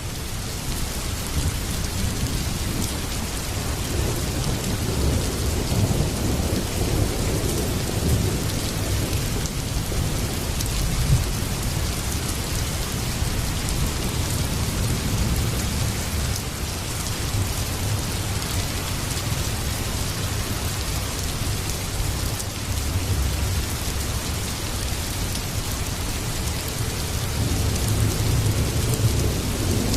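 Heavy rain falling steadily, with a low rumble of thunder rolling underneath that swells and fades several times.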